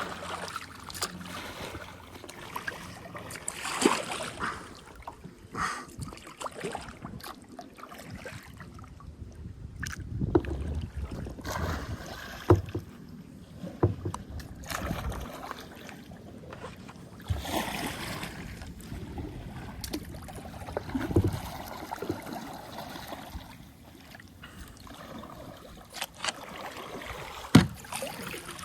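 Kayak paddling: paddle blades dipping and splashing in shallow river water at irregular intervals, with a few sharp knocks, the sharpest near the end.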